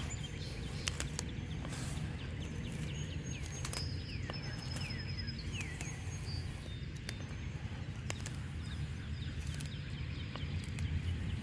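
Birds chirping outdoors in short falling calls, with a thin high whistled note about four seconds in, over a low steady rumble and a few sharp clicks.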